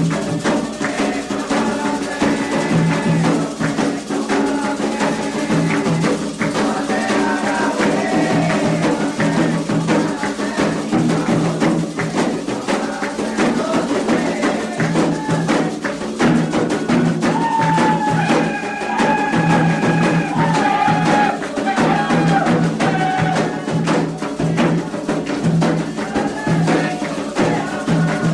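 Candomblé ritual music: hand drums and a struck bell keep a dense, driving rhythm, with a chant sung over it, most clearly in the second half.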